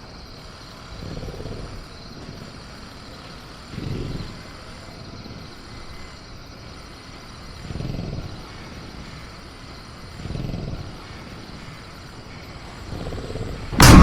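Designed caged-velociraptor ambience: low rumbling growls or breaths that swell and fade about every three seconds, over faint steady cricket chirping. Just before the end comes a sudden, very loud crash, such as the raptor rattling its cage.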